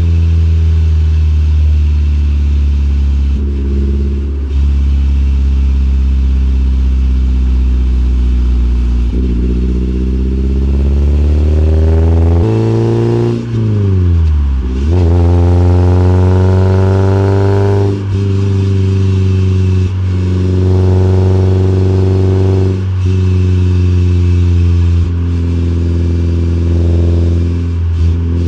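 Porsche 944 2.5 four-cylinder engine through a Fox sport exhaust, running loud under way. Its note climbs slowly and then drops back several times, with short breaks in between.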